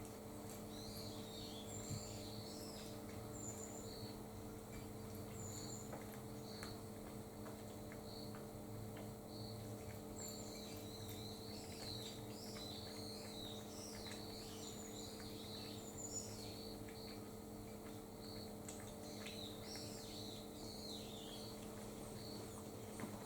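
Small wild birds chirping and twittering in short, high, irregular calls, busiest around the middle and again near the end, over a steady low electrical hum.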